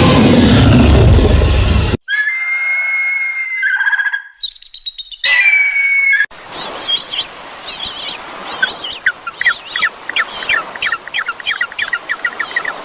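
Bird calls: after a loud noisy sound in the first two seconds, clear whistled calls, then a long run of rapid, repeated chirps over a steady hiss.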